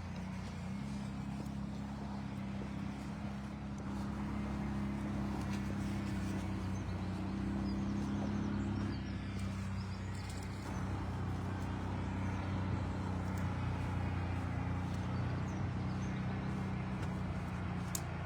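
An engine running steadily at low, even revs, its low hum shifting slightly about halfway through.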